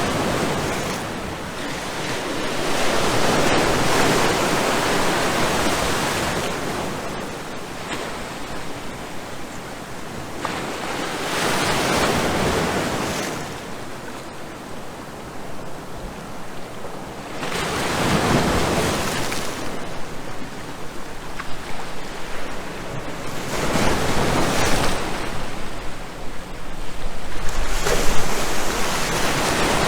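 Ocean surf: waves breaking and washing in, swelling and fading roughly every five to seven seconds.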